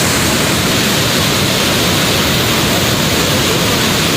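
Steady, loud rushing water noise with no pauses or distinct events.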